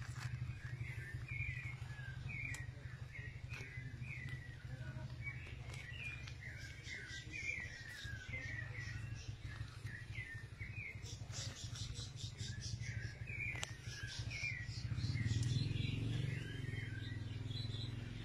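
Small birds chirping, many short quick notes repeated throughout, over a steady low hum; a louder low rumble swells about three-quarters of the way through.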